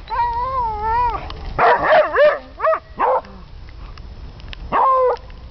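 Dog vocalizing: a long wavering whine-howl, then a quick run of short yelps and barks about two seconds in, and one more short whine-howl near the end.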